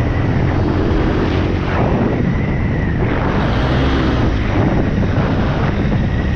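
Motorcycle engine running while under way, with wind noise on the microphone.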